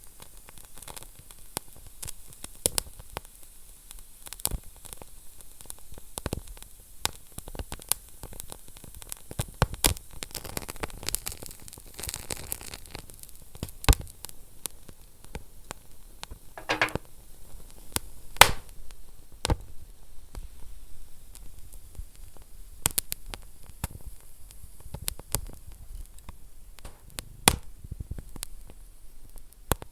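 Wood fire burning in a fireplace: irregular sharp crackles and pops over a soft hiss, with a brief flurry of crackling about twelve seconds in.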